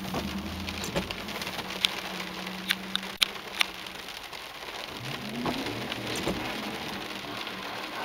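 Rain pattering steadily on a car, with sharp drop clicks, over the low running of a 1999 Camaro SS's 5.7-litre LS1 V8. The engine's revs rise briefly twice, about five and six seconds in.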